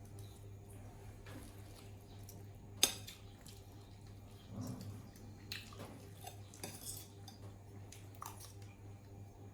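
Dishes and cutlery clinking at odd moments during feeding, with one sharper clink about three seconds in, over a low steady hum.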